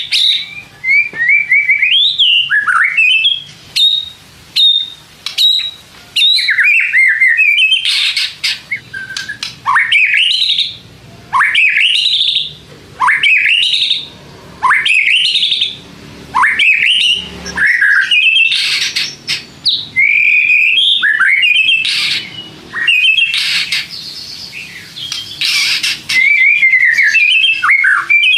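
White-rumped shama singing loudly and without pause: a varied string of clear, rapidly rising whistles, about one a second through the middle stretch, mixed with harsh, scratchy notes.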